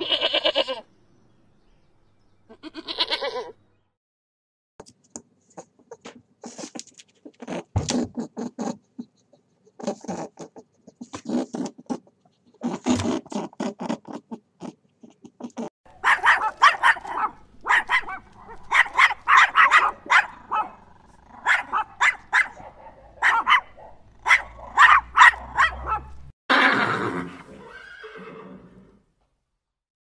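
A string of different animal calls: goat kids bleating twice at the start, a run of other animal calls through the middle, a puppy giving quick repeated high calls for about ten seconds in the second half, and a horse neighing near the end.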